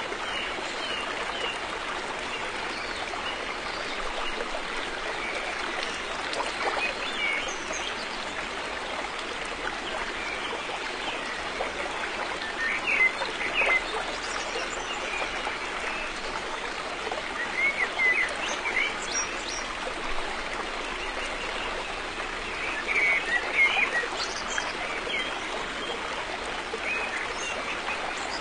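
River water flowing in a steady rush, with a few brief, higher-pitched bursts standing out about halfway through and again near the end.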